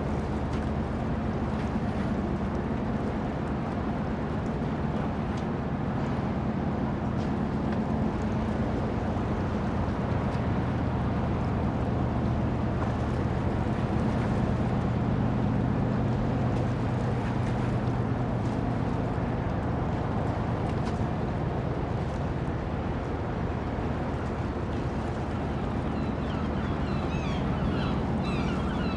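Dockside ambience: a steady low engine drone of a boat over a wash of background noise, with short high chirps near the end.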